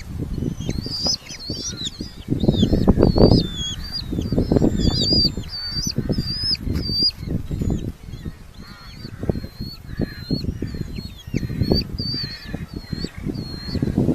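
Red-footed falcon giving a long run of short, shrill, repeated calls, a few a second, at the nest. Under the calls, low rumbling and knocking noise comes and goes, loudest a few seconds in.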